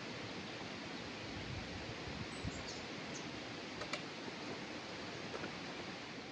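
Steady rush of a flowing river, with a few short, high, falling bird chirps about halfway through and a faint click a little later.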